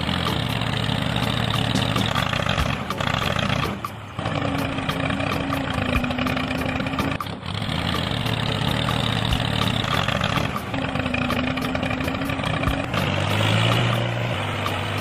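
A miniature model tractor's small motor running steadily. Its sound breaks off briefly a few times and changes pitch between stretches.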